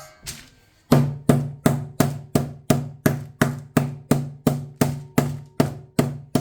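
Chicken breast being pounded flat under wax paper on a board: steady, even knocks about three a second, starting about a second in.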